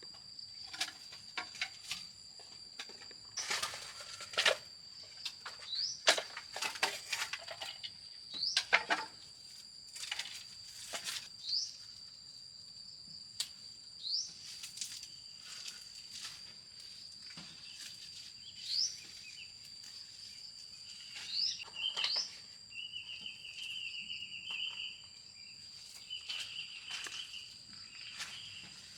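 Outdoor rural ambience: a steady high-pitched insect drone with short rising bird chirps every few seconds. Scattered knocks and clatters, densest in the first half, and a quick buzzing trill a little past the middle.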